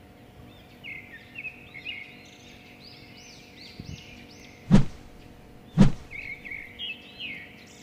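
A small bird chirping over and over in quick short notes, with two sharp knocks about a second apart past the middle.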